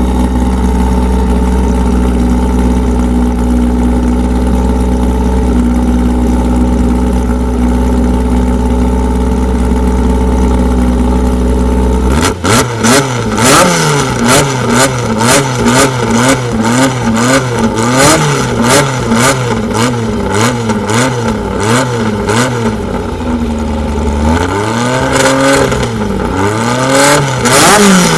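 Modified Volkswagen Beetle's engine idling steadily with a deep rumble, then from about twelve seconds in revved again and again in quick throttle blips, roughly one a second, with sharp cracks between them. Near the end come a few slower, longer revs.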